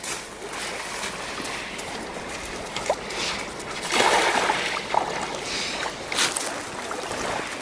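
Ocean surf washing on the shore, a steady hiss with a louder surge about four seconds in and a shorter one just after six.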